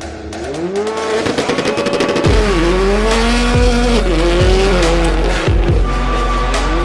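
A car engine revving and tires squealing in a burnout, over bass-heavy music that comes in about two seconds in.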